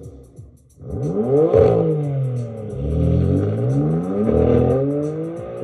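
A car engine revving up and down several times, starting about a second in, over background music with a quick ticking beat.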